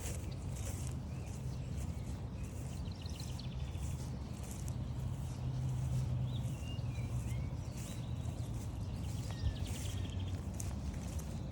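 Walking footsteps on a forest trail, a soft step about every three-quarters of a second, over a steady low rumble. Birds call now and then: a short stuttering trill a few seconds in, a couple of chirps midway, and another trill near the end.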